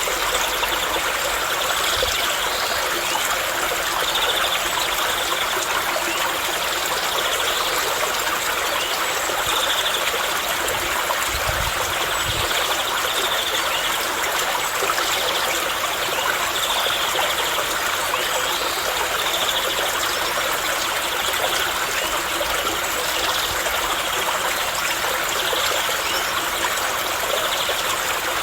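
Steady rush and trickle of flowing stream water, with short high notes recurring every second or two over it.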